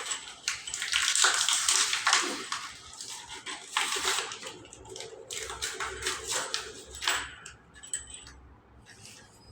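Irregular scraping and knocking from hand work on a commode installation. It is loudest in the first two seconds, with further scrapes about four and seven seconds in, then dies down toward the end.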